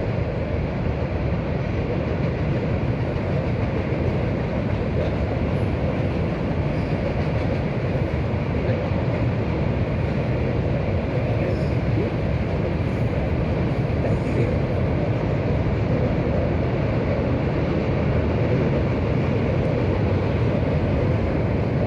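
CSX freight train rolling across a river trestle: a steady rumble of railcar wheels on the rails and bridge.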